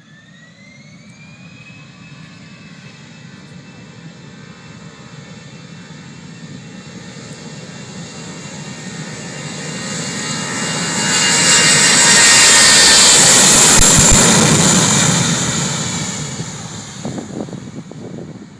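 Airbus A319 airliner's jet engines spooling up to takeoff thrust: a whine rises in pitch over the first second or two and then holds steady. The jet noise builds steadily to a loud peak about twelve to fourteen seconds in as the aircraft rolls past on its takeoff run, then fades.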